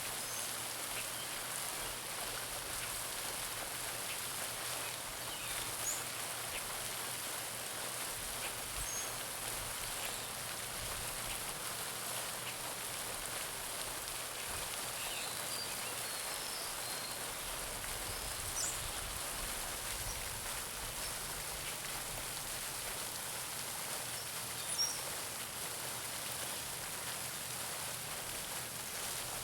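Garden fountain spraying and splashing steadily into a pond, a constant patter of falling water. A few short bird chirps come through at intervals, the sharpest about five seconds from the end.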